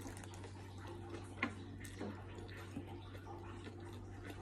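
Quiet chewing of a sandwich mouthful: a few soft mouth clicks, one sharper click about a second and a half in, over a steady low hum.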